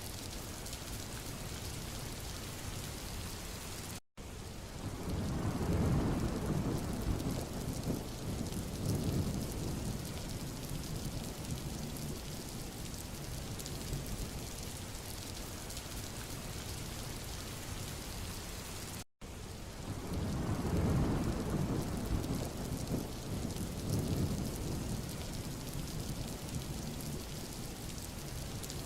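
Steady rain falling on a road surface. Twice, about fifteen seconds apart, the sound cuts out for an instant and a deep rumble then swells for several seconds before fading back into the rain.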